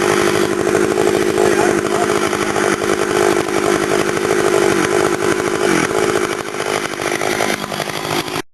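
Stihl chainsaw running steadily at high speed, a saw its owner says was running way too rich. It cuts off abruptly near the end.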